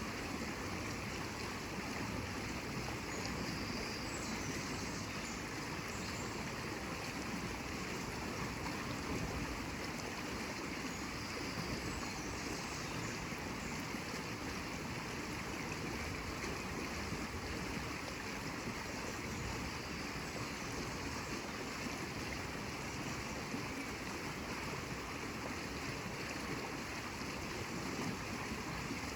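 Water running steadily in a stream, an even rushing sound without swells.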